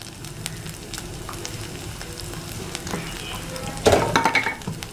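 Chopped onions frying in oil on a tawa griddle, a steady sizzle with many small crackles. About four seconds in there is a brief louder clatter.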